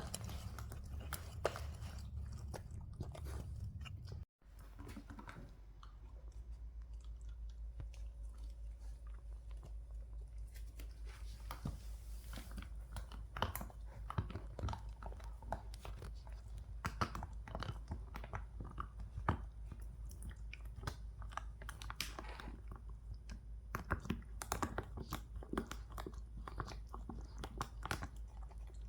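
A dog crunching and chewing dry kibble, with a rapid, irregular run of sharp crunches.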